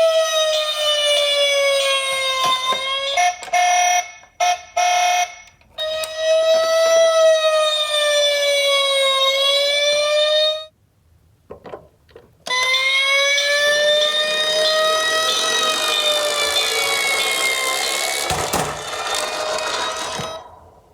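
Electronic toy sirens from emergency-vehicle minicars, wailing in slow rising-and-falling sweeps. A choppy, pulsed siren pattern cuts in briefly about three seconds in; the sound stops for a couple of seconds with a few clicks, then another wail starts with a rushing noise underneath it and fades out near the end.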